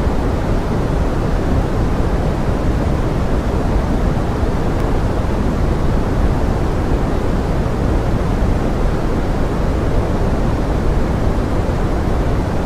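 Steady pink noise mixed with forest rain: an even, unchanging hiss that is heaviest in the low end.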